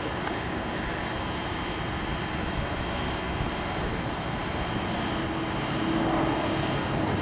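Piston-engine propeller warbird flying past, a steady engine drone that grows louder near the end as the aircraft approaches.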